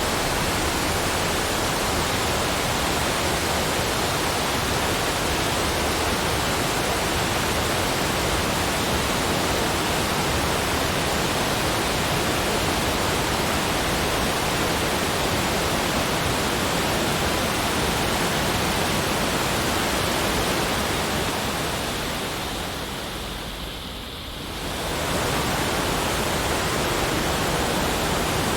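Steady, even rushing noise of water, like a waterfall, with no distinct events. About 22 seconds in it fades down for a couple of seconds and swells back to full level.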